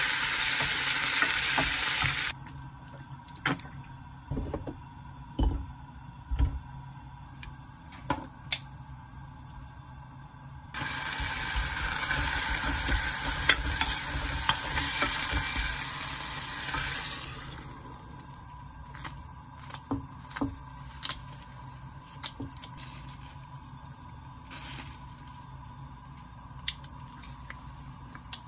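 Vegetables sizzling in hot oil while stirred with a spatula: first julienned potatoes and onion in a frying pan, cutting off after about two seconds, then, about eleven seconds in, zucchini and other vegetables in a ttukbaegi earthenware pot for about six seconds. In the quieter stretches between and after, utensils click and knock against the cookware.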